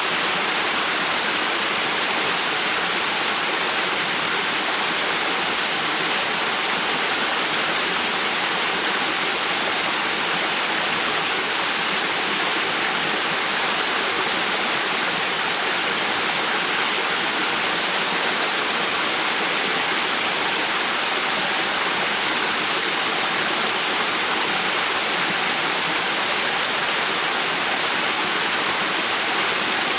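River water flowing in a steady, unchanging rush, mostly high hiss with little deep rumble.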